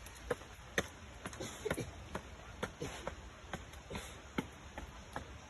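Irregular light ticks and taps, two or three a second and unevenly spaced, some with a short ringing plink, over a low steady background hiss.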